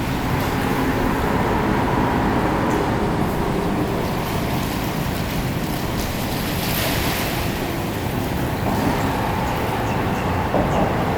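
Waterfront ambience: a steady engine hum over the wash of water and wind noise on the microphone, with a brief swell of hiss about seven seconds in.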